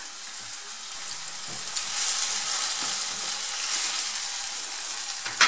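Chopped onion and peppers sizzling in oil in a nonstick frying pan while being stirred with a silicone spatula, a steady hiss that grows a little louder about two seconds in. A brief, louder sound comes near the end.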